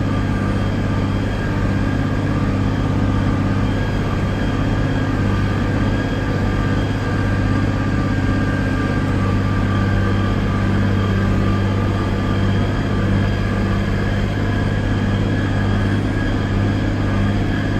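John Deere tractor engine running steadily with a deep, even drone as it pulls a dirt scraper pan.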